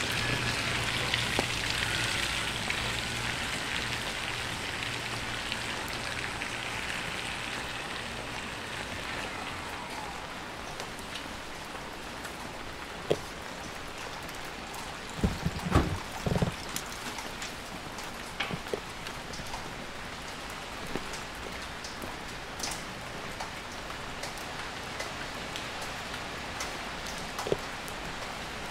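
Steady rain falling on a wet street, a constant hiss scattered with small ticking drips. A few louder dull thumps come about halfway through. In the first few seconds the tail of a background music track fades out under the rain.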